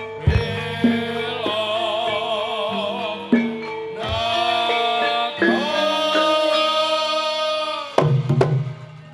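Javanese folk music with a wavering sung or melodic line over held notes and hand-drum strokes. About eight seconds in, the music breaks off into a few thumps and a low hum.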